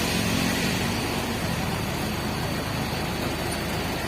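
Truck engine idling steadily, running again after its battery was replaced.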